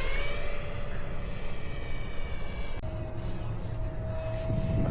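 Electric ducted-fan RC jet in flight, its fan whining steadily. About three seconds in, the high part of the whine drops away suddenly, leaving a lower steady hum. A low rumble of wind lies underneath.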